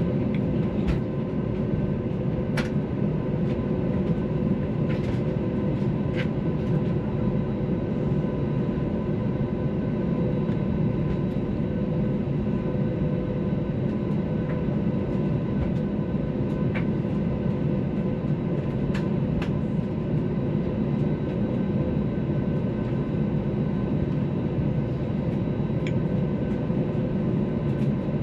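Steady cabin rumble and hum of an Airbus A321's IAE V2500 turbofan engines at low power, heard inside the cabin at a window seat, with a few faint steady tones and occasional small clicks. The level stays flat, with no spool-up for the takeoff roll.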